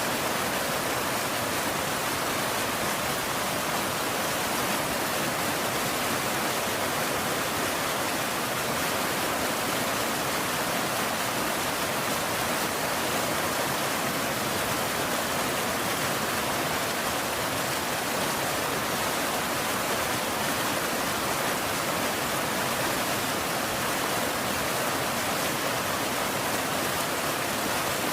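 Steady rain: an even, unbroken hiss with no thunder or separate drops standing out.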